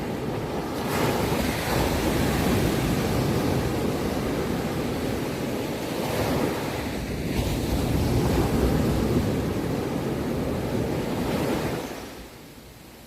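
Ocean surf: waves breaking and washing in a steady rushing noise that swells and eases, dropping away sharply about a second before the end.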